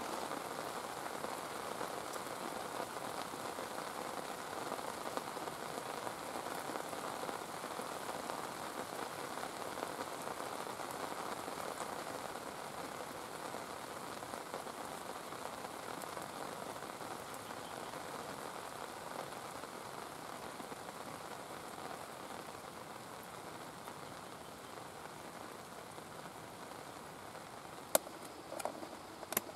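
Steady rain falling, slowly easing and growing quieter, with a single sharp click near the end.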